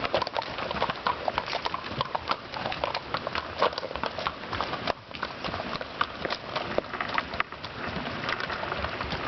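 Hooves of a passing mule train's mules and horses clopping on the trail, many irregular, overlapping clops.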